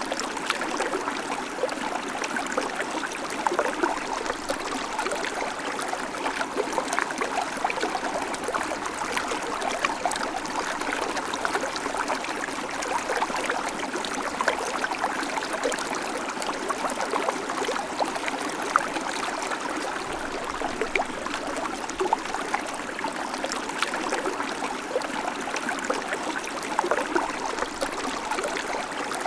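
Babbling creek: water running and splashing steadily over stones, a dense patter of small bubbling splashes.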